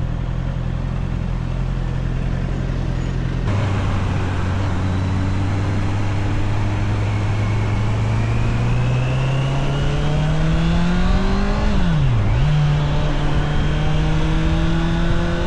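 Honda CBR650R's inline-four engine under way, its note climbing steadily as the bike accelerates. About twelve seconds in, the pitch dips sharply and settles lower at a gear change, then holds as it pulls on, with wind and road noise underneath.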